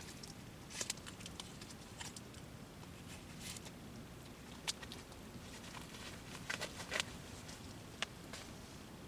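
Small wood fire of kindling crackling, with irregular sharp snaps and pops over a faint hiss, a cluster of them about two-thirds of the way through.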